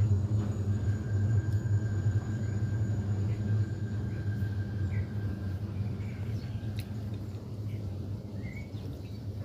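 A steady low hum that slowly fades, with a few faint bird chirps.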